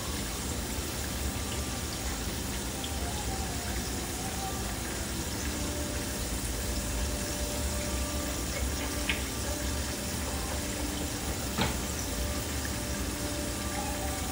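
Pork chops frying in a skillet of oil: a steady sizzle, with one sharp click late on.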